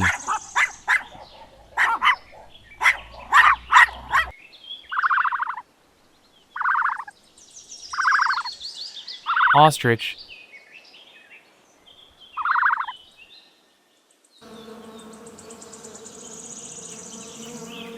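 A puppy yelping in quick short cries for about four seconds, then after a cut a series of short, evenly spaced animal calls, and from near the end a housefly buzzing steadily.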